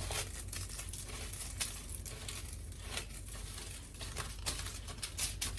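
Dry crinkling and crackling of broken cornflakes and breadcrumbs being handled, short irregular crackles over a steady low hum.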